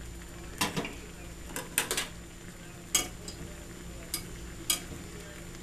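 Pork pieces frying in a pan with a steady sizzle, while a utensil stirring them knocks and clicks against the pan about half a dozen times.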